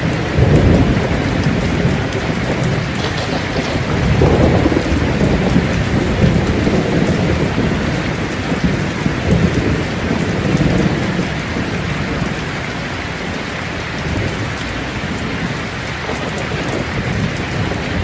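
Steady heavy rain with low rolling thunder that swells a few times, about half a second in, around four seconds in and around ten seconds in.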